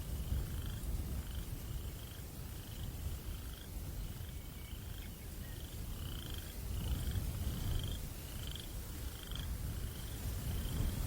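Night breeze making a steady low rumble, with a small night-calling creature giving short, slightly rising chirps over and over, about three every two seconds.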